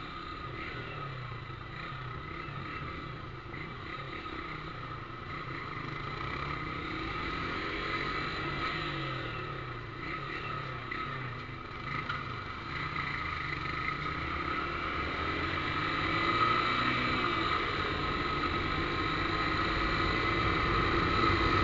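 Motorcycle engine running through a newly fitted aftermarket exhaust, with a low rumble that wavers gently with engine speed and grows slowly louder toward the end.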